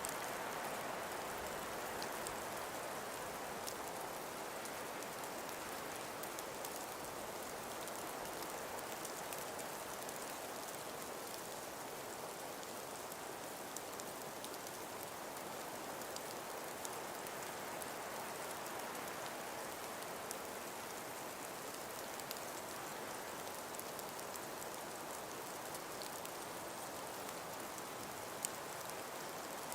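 Calm breeze: a steady, even rushing hiss, with scattered faint light ticks.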